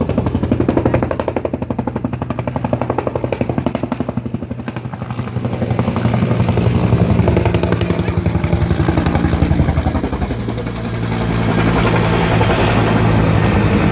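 A firefighting helicopter flying, its rotor beating fast and steadily with an engine drone underneath.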